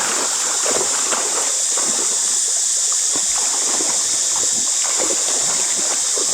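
Water trickling and splashing irregularly, over a steady high-pitched hiss.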